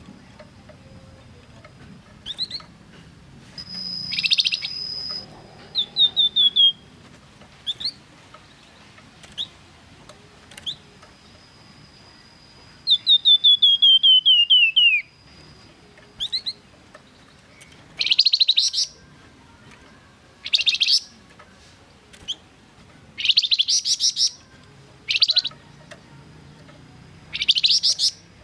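A Flamboyan songbird in full song. It gives long thin high whistles and, midway, a quick run of notes falling in pitch. From about two-thirds of the way in come loud bursts of rapid chattering, each a second or so long, with short pauses between them.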